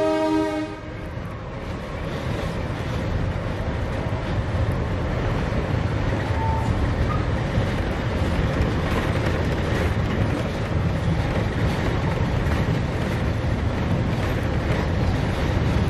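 A narrow-gauge train's horn finishes a blast and cuts off under a second in, then the train runs on with a steady rumble.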